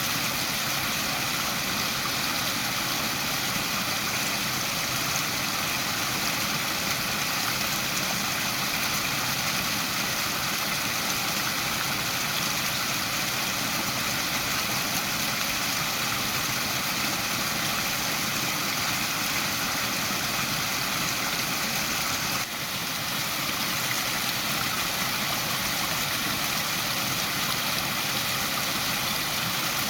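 Waterfall: a steady rush of falling water, with a brief dip in level about two-thirds of the way through.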